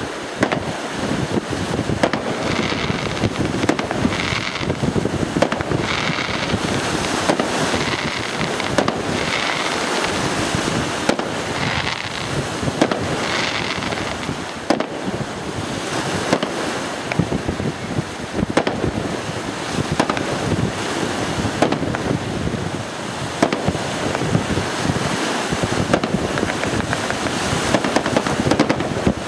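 Fireworks display with aerial shells bursting in a continuous run of bangs and crackles. Wind rumbles on the microphone underneath.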